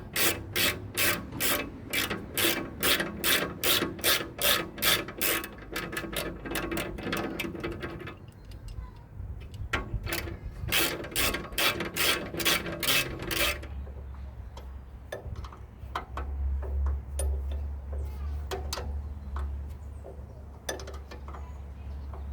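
Ratchet wrench clicking in steady strokes, about two a second, while loosening nuts; the clicking pauses once and then runs again. In the second half it gives way to a steady low hum with only a few scattered clicks.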